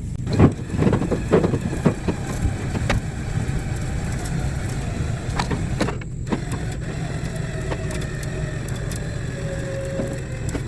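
Electric winch pulling a backhoe onto a trailer: a motor whine that slowly drops in pitch as it strains under the load, over a steady low hum, with a few sharp knocks and clanks in the first two seconds.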